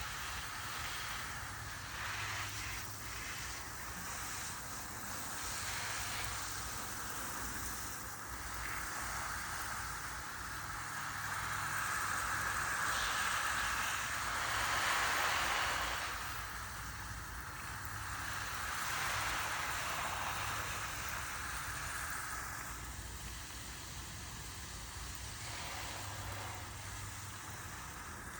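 Garden hose spraying water onto plants: a steady hiss that rises and falls in loudness, loudest about halfway through.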